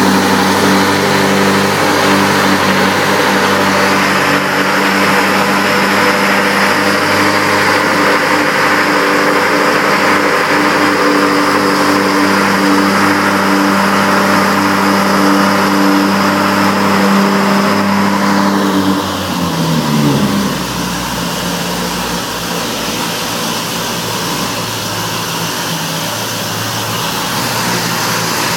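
BMW X6M's twin-turbo V8, G-Power tuned and breathing through an Akrapovic Evolution exhaust, running at a raised idle just after start-up. About nineteen seconds in, the engine speed drops and it settles to a lower, quieter idle.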